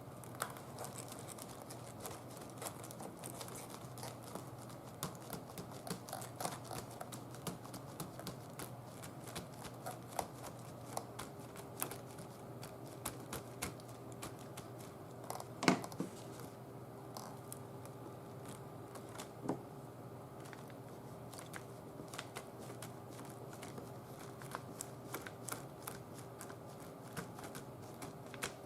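Light, irregular tapping and clicking of a stamp or dauber pressing ink through a stencil onto a journal page, with a louder knock about 16 seconds in and another a few seconds later. A faint low hum runs underneath, and a steady tone joins it about 11 seconds in.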